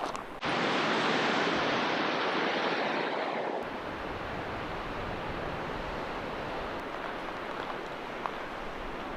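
Strong wind rushing steadily in a windstorm, loud for the first few seconds, then dropping suddenly to a lower steady rush with a low rumble of wind on the microphone.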